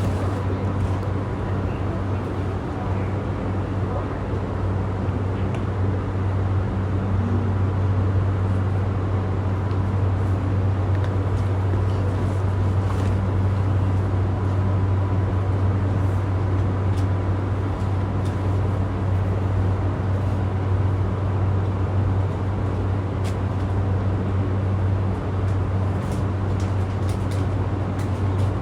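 Inside a stationary JR East E235-1000 series electric train car: a steady low hum from the car's air conditioning and auxiliary power equipment, with a faint thin whine.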